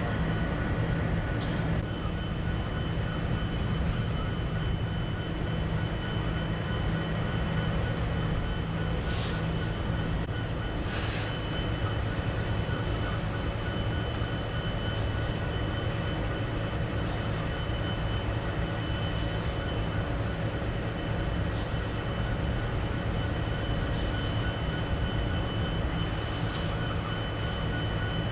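Steady low rumble of an idling diesel engine with a thin, steady high tone above it, and a short high hiss repeating about every two seconds.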